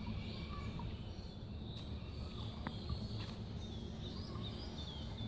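Small birds chirping: scattered short calls, then a run of falling twitters near the end, over a steady low background rumble.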